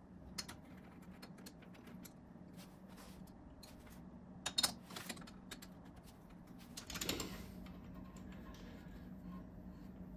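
Faint, irregular light clicks and taps of hand tools and metal parts being handled while the rear hub assembly is tightened, with slightly louder knocks about four and a half and seven seconds in, over a faint steady low hum.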